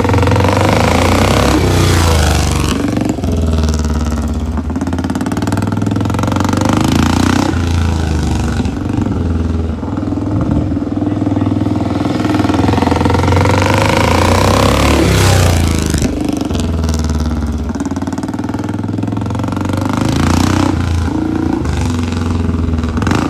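Rickman Metisse motorcycle engine running loudly and being revved, its pitch rising and falling several times.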